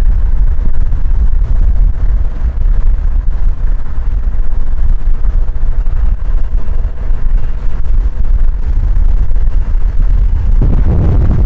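A car driving: a loud, steady low rumble of engine, road and wind noise that swells near the end.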